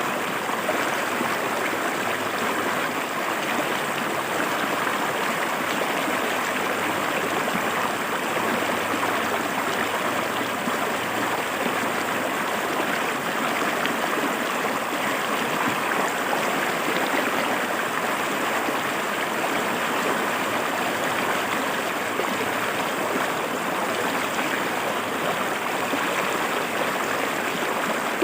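River water flowing over rocks: a steady, even rush of stream water.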